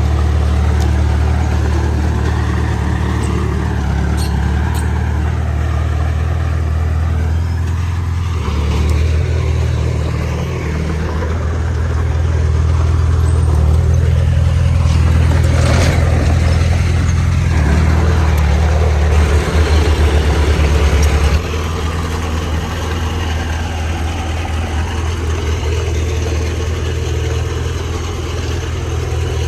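Bulldozer's diesel engine running steadily under load. It grows louder partway through and then drops off suddenly about two-thirds of the way in.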